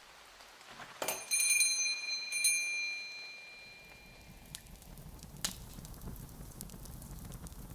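Small shop-door bell jingling as a door opens, struck about a second in and again a second and a half later, its ring dying away over the next couple of seconds. After it comes a faint low rumble with scattered crackles and clicks.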